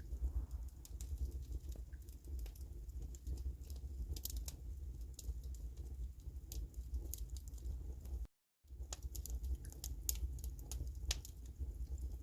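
Wood fire in a fireplace crackling, with irregular sharp pops and snaps over a low steady rumble. The sound cuts out completely for a moment about eight seconds in.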